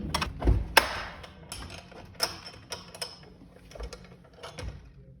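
Metal tool clinking and clicking irregularly against the scooter's front axle nuts as they are worked loose, with a few dull knocks; the sharpest click comes a little under a second in.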